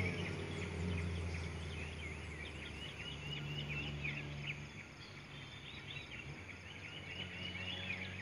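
Many birds chirping in quick, short calls, over a low steady hum that fades somewhat after the first few seconds.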